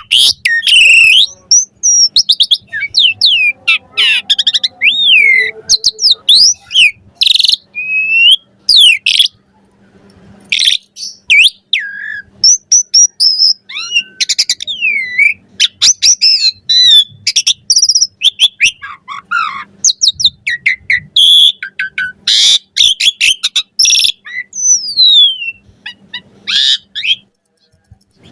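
Asian pied starling (jalak suren) singing a long, varied song: whistled notes gliding up and down, mixed with rapid chatters and sharp clicking notes. There is a brief pause about ten seconds in.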